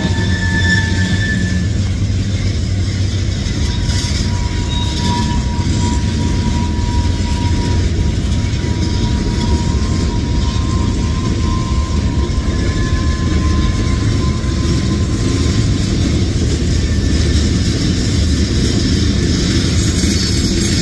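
Freight cars of a CSX manifest train rolling past steadily, a continuous loud rumble of steel wheels on rail. A thin high steady tone rides over it from about three seconds in until about fifteen seconds.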